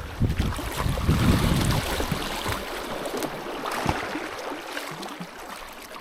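River water rushing and splashing around a canoe under way, with wind buffeting the microphone in uneven gusts.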